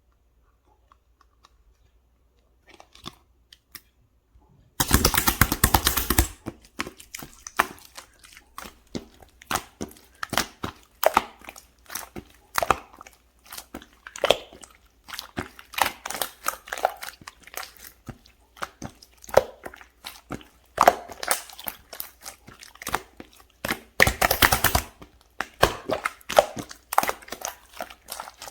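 Sticky red slime being squished, stretched and poked by hand: a run of wet clicks and small air pops, with two loud spells of rapid crackling, about five seconds in and again near twenty-four seconds. The first couple of seconds are nearly silent.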